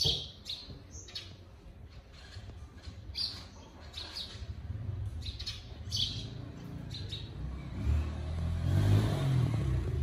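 Small perched birds chirping in short, separate chirps, several a few seconds apart. Under them a low rumble swells and is loudest near the end.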